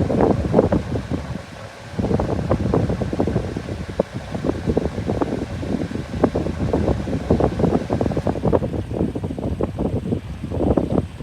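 Strong, gusty typhoon wind buffeting the microphone in an uneven roar, with a short lull about a second in.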